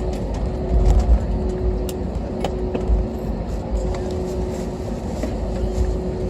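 Airbus A320 cabin noise while the airliner rolls on the ground after touchdown: a steady low rumble with a constant hum and scattered small clicks and rattles.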